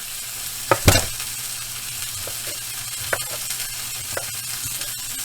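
Burger patties sizzling steadily in a frying pan as the cheese on them melts, with a few sharp knocks, the loudest about a second in.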